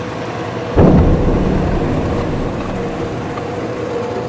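Steamroller engine sound effect that comes in suddenly about a second in, loudest at the start, then runs steadily.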